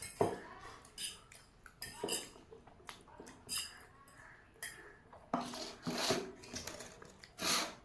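Cutlery clinking and scraping against dishes as instant noodles are eaten: scattered short clicks, with a cluster of louder noisier bursts about five and a half seconds in and another near the end.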